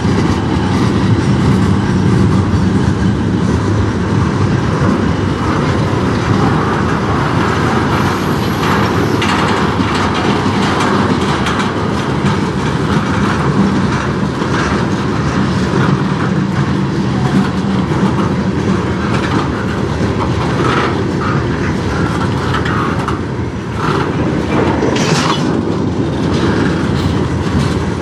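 Freight cars of a mixed freight train rolling past at steady speed. Steel wheels make a loud continuous rumble on the rails, with the clickety-clack of wheels crossing rail joints.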